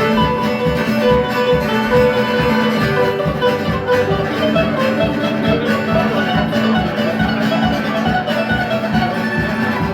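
Live band playing an instrumental break with no vocals: a plucked-string guitar lead over a steady beat.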